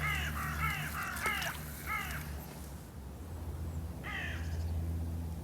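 A crow cawing: a quick run of about five harsh caws in the first two seconds, then one more about four seconds in, over a low steady hum.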